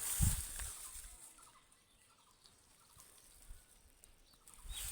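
A short low thump near the start, then faint, scattered short calls of domestic fowl.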